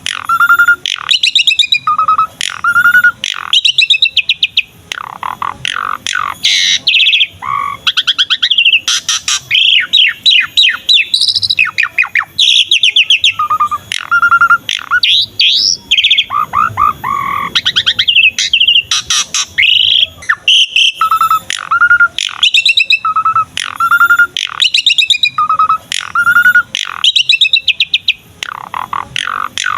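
Javan pied starling (jalak suren) in full, energetic song, the kind played to train other starlings. Loud, varied phrases of short repeated whistles alternate with fast runs of chirps and trills, with hardly a pause.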